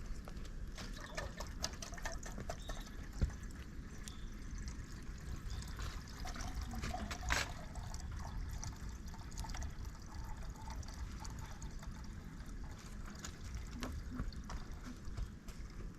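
Campfire of dried bamboo pieces, twigs and leaves burning in a fire stand, crackling with many small irregular ticks over a steady low rumble. A sharp pop about three seconds in, and a louder crack about seven seconds in.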